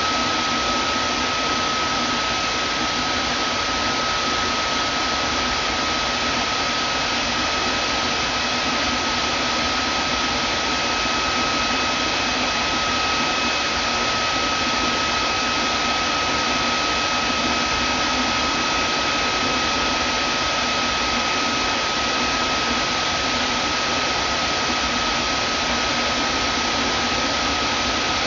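Vacuum cleaner running at a steady speed: an even hiss of rushing air with a steady high motor whine over it.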